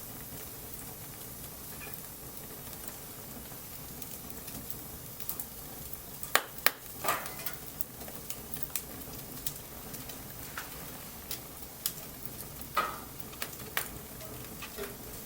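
Wood fire crackling: a steady hiss with scattered sharp pops, the loudest a few in quick succession a little before the middle and more near the end.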